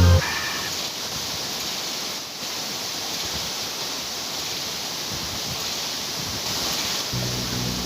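Waterfall's falling water: a steady, even rush, with a brief dip just after two seconds in. Music with low sustained tones comes in near the end.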